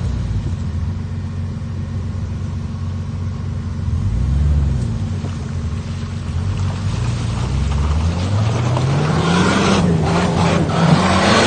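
Turbocharged 4x4 engine working off-road under load: the revs rise briefly about four seconds in, drop back, then climb steadily from about seven seconds in, with a growing hiss and rapid crackle near the end.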